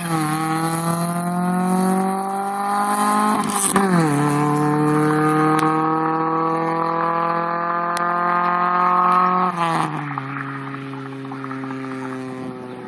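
Nissan Sunny GTS with an aftermarket Magnaflow exhaust accelerating hard. The revs climb, drop sharply at an upshift about 4 seconds in, climb again, and drop at another shift near 10 seconds. After that the engine holds lower revs and fades away.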